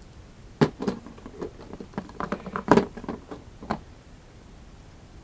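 Hot Wheels toy monster trucks being handled, giving an irregular run of sharp clicks and knocks for about three seconds, two of them louder than the rest.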